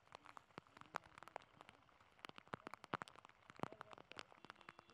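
Rain falling, heard as scattered irregular drops and ticks, faint overall.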